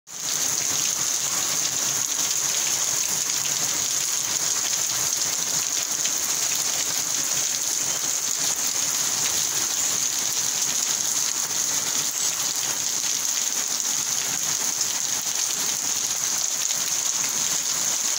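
Heavy rain falling steadily on a paved street and roofs: a dense, even hiss of many drops.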